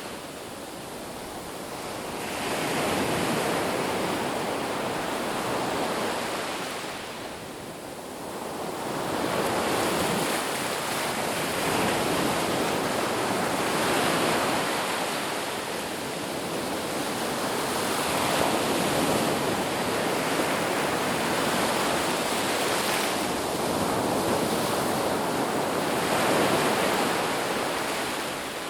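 Ocean waves breaking on a beach: a continuous rushing surf that swells and eases in slow surges every few seconds.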